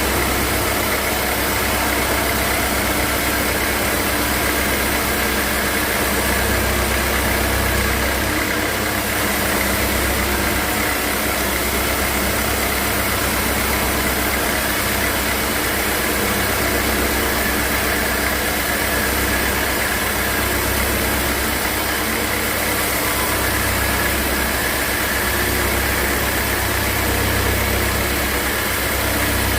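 Sawmill machinery running steadily: a constant engine-like hum over a low rumble and an even hiss.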